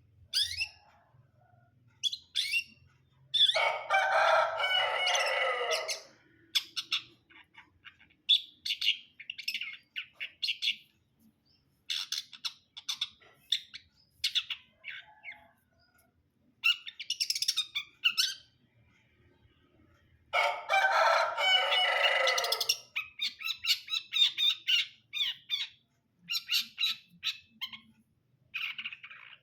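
Long-tailed shrike (cendet) singing: a run of short, sharp, high chirps and whistles, broken twice by a harsh, raspy phrase lasting two to three seconds.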